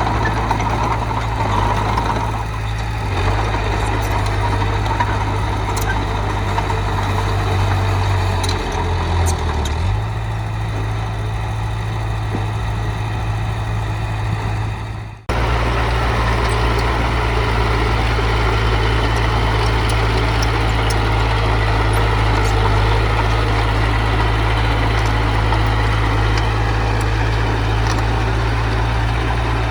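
Diesel engine of heavy earthmoving machinery running steadily, with a small change in pitch partway through. The sound breaks off sharply for a moment about fifteen seconds in, then the engine continues just as steady.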